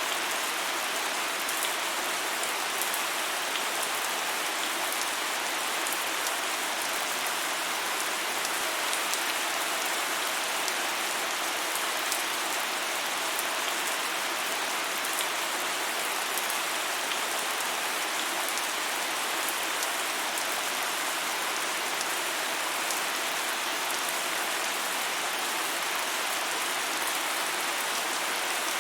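Steady rain falling, an even hiss with many fine drop patters, no thunder.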